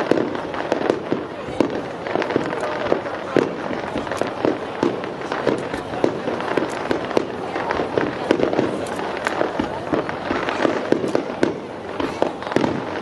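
Fireworks shells bursting in a rapid, continuous barrage: many sharp bangs and crackles every second, with no break.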